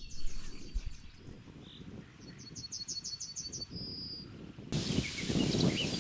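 A bird singing: a quick series of repeated high notes, then a second series that ends in a short held note. About three-quarters of the way in, a louder rushing noise starts suddenly, with further faint chirps in it.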